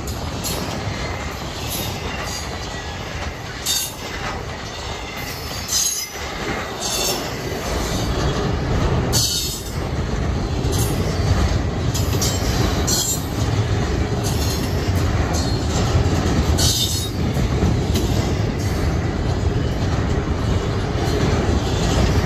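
Double-stack intermodal train's loaded well cars rolling past close by: a steady rumble of steel wheels on rail, with brief high-pitched wheel squeals every second or two. It grows a little louder partway through.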